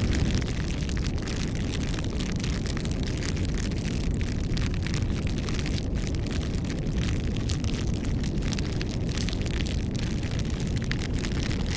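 Bonfire burning: a steady low rush of flame with many small crackles and pops from the burning wood.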